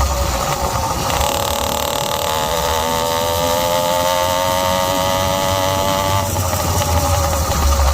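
Zeda YD100 two-stroke engine with an expansion chamber pipe, on a motorized bicycle under way. The revs climb about a second in, hold steady at high revs, then drop off about six seconds in.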